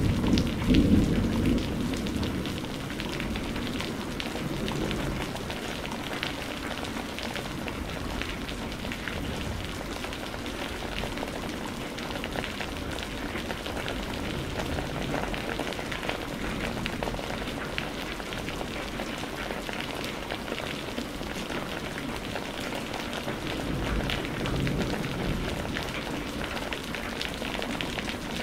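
Steady rain falling, a continuous hiss with many fine drop ticks. A rumble of thunder dies away in the first couple of seconds, and a faint low rumble swells briefly near the end.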